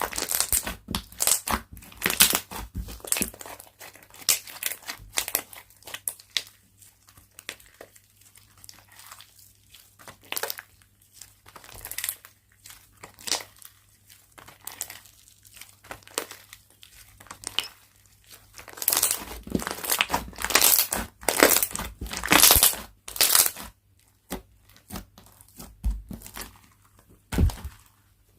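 Slime being squeezed, stretched and folded by hand, making dense, irregular crackling and crinkling bursts, with a louder run of crackles about two-thirds of the way through.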